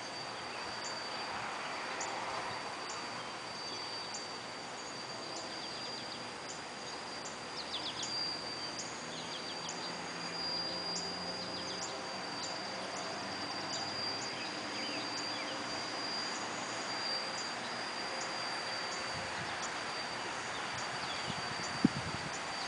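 Vacuum motor running steadily: a constant high whine over a broad hiss, which goes on without a break.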